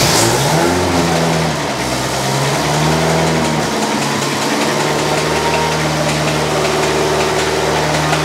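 Ferrari engine in an Alfa Romeo 105 running at idle: its revs climb briefly at the start, waver for a few seconds, then settle into a steady idle.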